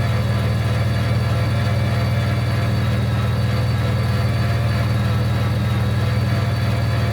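Portable generator engine running steadily with a constant low hum, powering the trailer's electric lift as it raises the front. The generator gives the lift higher voltage so it runs faster than on battery alone.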